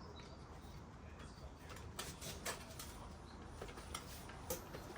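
A few light clicks and knocks, scattered through the second half, from handling a bicycle and its workshop repair stand.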